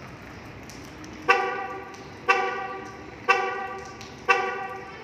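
MG5's car horn honking in short, regular blasts, about one a second, four times starting about a second in, each with a sharp start and a fading tail. This is the car's find-my-vehicle alarm, set off by pressing the lock button on the key fob.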